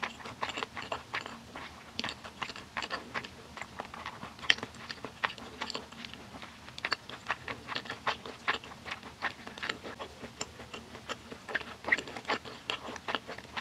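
A person chewing a mouthful of food, making a quick, irregular run of mouth clicks and smacks, a few a second.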